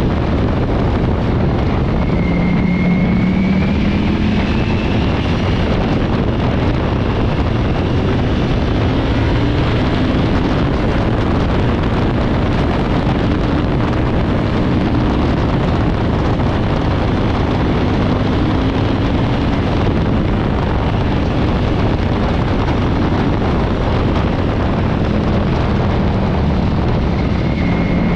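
Ducati V4 motorcycle riding at speed: a heavy, steady wind rush over the microphone, with the engine's note underneath slowly rising and easing off a few times.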